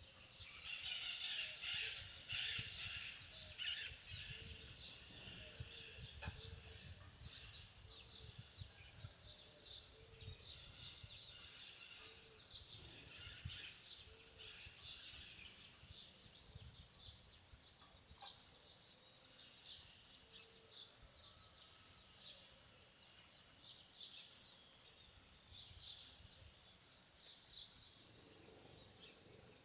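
Birds chirping over light, steady rain, with a burst of rapid chirping in the first few seconds. A faint low call repeats about once a second under it.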